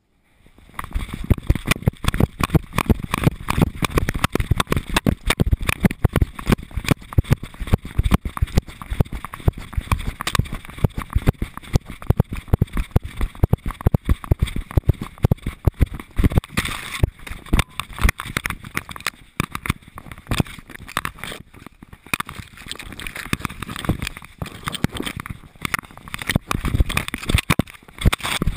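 A harness-mounted GoPro jostling on a moving dog: a fast, irregular clatter of knocks and rattles from the camera housing and harness, mixed with the dog's footfalls. It starts about half a second in.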